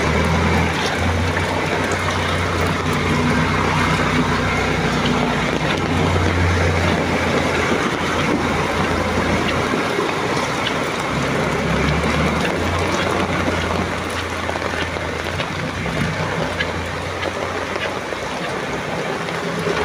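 Truck engine running as it drives through deep floodwater, over a steady rush and wash of water; the engine hum drops away near the end.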